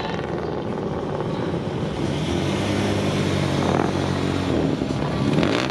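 A motor vehicle's engine running at low speed, with one passing close about five seconds in.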